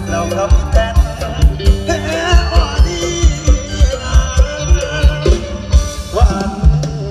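Live Isan mor lam band music with a steady, heavy bass-drum beat under a bending melodic lead line.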